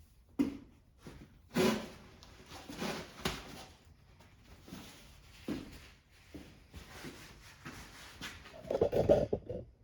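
Clinks, knocks and scrapes of hand tools and metal parts being handled while taking apart a Kohler small engine, with a quick run of rattling knocks near the end.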